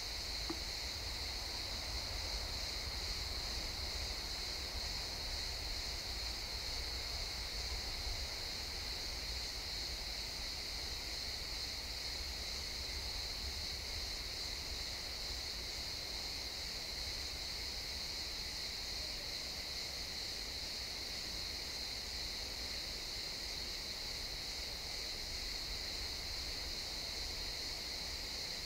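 Crickets chirping in a steady, unbroken high-pitched chorus, with a faint low rumble underneath.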